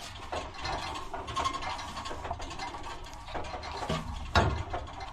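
Flexible metal water heater connector lines being bent by hand to shape their curves, giving a run of small metallic clicks and creaks with a sharper knock near the end.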